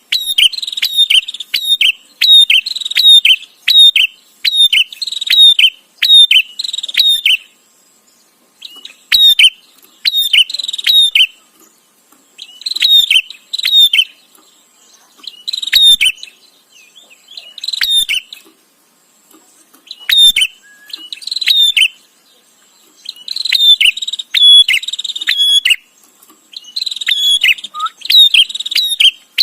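Prinia (prenjak) chattering: rapid strings of sharp, high notes, continuous for the first seven seconds or so, then in bursts of one to three seconds with short pauses between.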